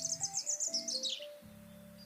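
A small songbird sings a quick trill of high chirps that drops in pitch and stops a little over a second in, over gentle melodic background music.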